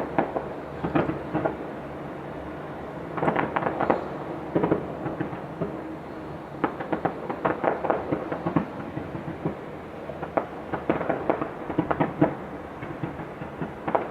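Distant fireworks display going off, with rapid pops and crackles in irregular clusters.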